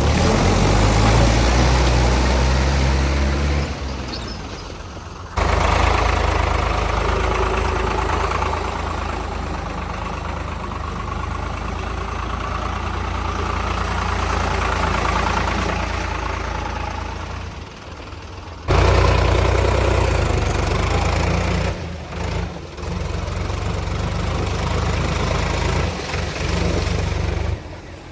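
Diesel tractor engines running under load in deep mud, a strong low engine drone. The sound changes abruptly several times, at about 5 and 19 seconds in.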